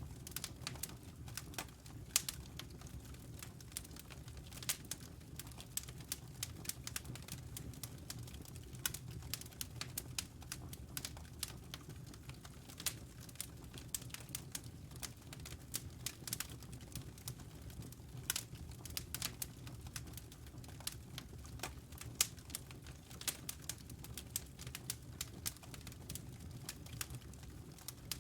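Wood fire crackling in a fireplace: irregular sharp pops and snaps, several a second, some louder than others, over a low steady rumble.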